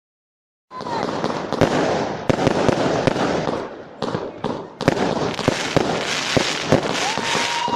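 Fireworks going off: dense crackling and hissing with many sharp bangs, starting suddenly about a second in and easing briefly around the middle. Near the end a whistle rises in pitch and then holds.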